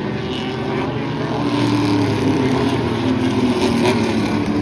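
Race trucks' engines running on a speedway oval, several engines overlapping, growing louder about a second and a half in.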